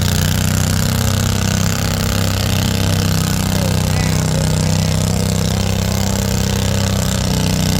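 Farm tractor engine running steadily under load, a loud, even, fast low throb.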